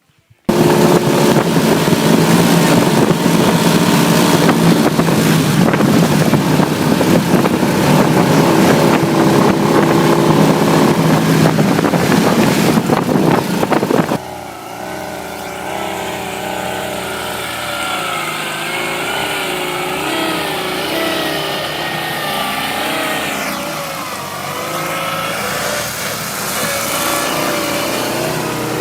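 Modified Ural motorcycle's flat-twin engine running loud, starting suddenly about half a second in. About halfway through it drops in level and its pitch rises and falls as the engine speed changes.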